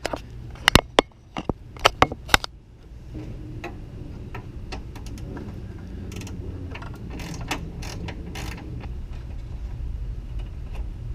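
Ratchet wrench undoing a 10mm bolt on the radiator fan: a few sharp metal clicks and knocks over the first couple of seconds, then a long run of rapid light ratcheting clicks.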